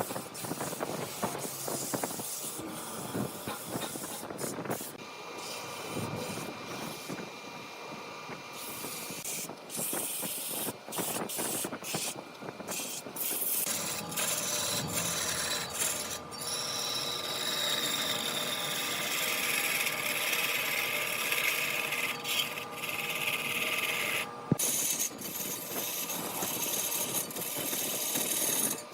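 Wood lathe running with a turning tool scraping against the spinning wood: a continuous rasping scrape over faint steady machine tones, broken off abruptly several times.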